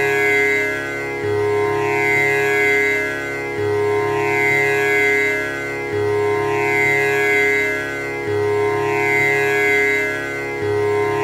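Tanpura drone: its strings plucked one after another in a cycle that repeats about every two and a half seconds, each cycle opening with a low note, the overtones ringing on between plucks so the sound never stops.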